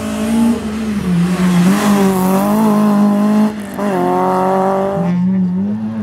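Rally hatchback's engine revving hard through a slalom chicane, its pitch rising and falling. There is a brief lift about three and a half seconds in, then it pulls again, and it drops away near the end.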